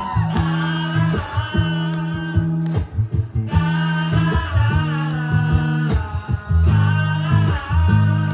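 Live acoustic band music: plucked guitar over held low notes that change every second or so, with wordless singing gliding above.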